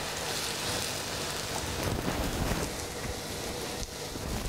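Ripe plantain slices frying in shallow oil in a nonstick pan: a steady sizzle with fine crackling.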